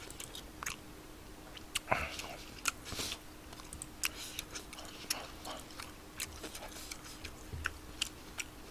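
Quiet eating sounds: soft, irregular clicks and small taps of chewing and mouth noise, about one or two a second, over a faint steady hum.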